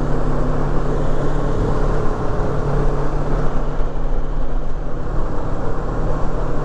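2019 Kawasaki Versys 650's parallel-twin engine running at a steady cruise, under a dense, even rush of wind and road noise.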